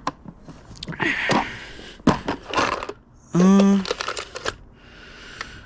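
Small hardware being handled: rustling and a few sharp clicks of loose bolts and packaging. A short loud hummed vocal sound comes a little past halfway.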